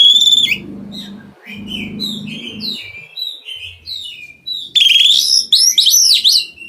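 Oriental magpie-robin (kacer) singing a varied song of whistled notes and chirps, with loud harsh, rasping phrases at the start and again about five seconds in.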